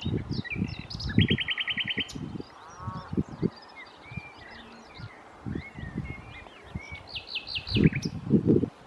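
Common nightingale singing varied phrases of whistles and chirps, with a fast trill of rapidly repeated notes about a second in and another quick run of notes near the end. Intermittent low rumbling runs underneath.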